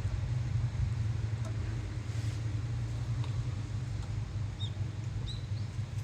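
Strong wind rumbling and buffeting on the microphone, a steady low roar. Near the end there are a couple of short, faint high bird chirps.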